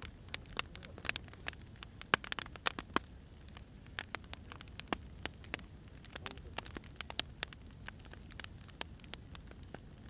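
Wood fire crackling: irregular sharp pops and snaps from burning firewood over a steady low rumble of the flames.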